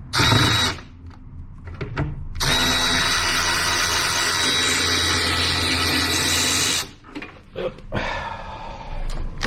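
Milwaukee cordless power tool spinning out a 10 mm bolt. It gives a short burst first, then runs steadily for about four seconds with a high whine before stopping, followed by a few light clicks.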